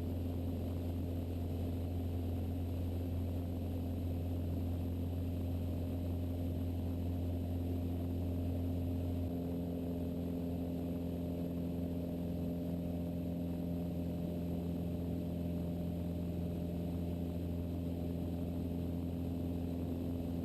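Mooney M20E's four-cylinder Lycoming engine and propeller droning steadily in flight, heard from inside the cabin. About nine seconds in, the tone shifts slightly as the deepest hum eases.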